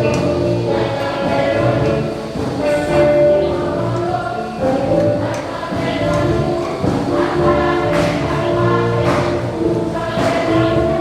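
Gospel choir singing a worship song in Kinyarwanda, with instruments and a steady beat.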